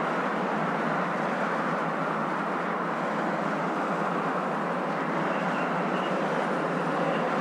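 Steady rushing hum of a moving car, road and engine noise heard as an even, unchanging drone, used as white noise to settle a baby to sleep.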